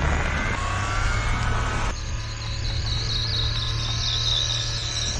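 A kei truck's small engine running as the truck is driven, with a steady low hum. About two seconds in, the broad driving noise drops away, leaving a high-pitched whine over the engine hum.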